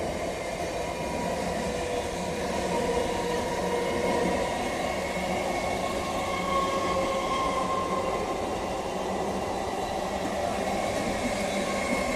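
Electric multiple-unit local train running steadily out of a station, a continuous rumble of wheels and coaches with a faint steady whine over it.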